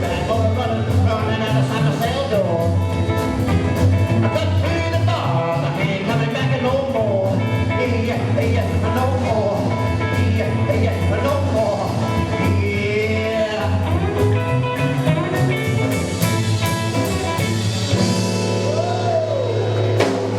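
Live rockabilly band playing an instrumental break: upright double bass walking a steady low line under a drum beat, with an electric guitar playing a lead line of bent notes.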